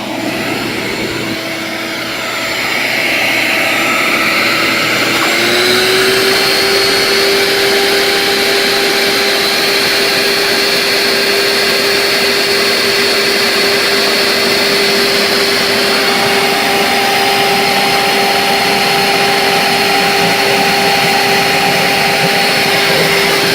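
RIDGID 16-gallon, 6.5-peak-HP wet/dry shop vacuum running while sucking up standing water. Its motor pitch rises and gets louder about five seconds in, then holds steady.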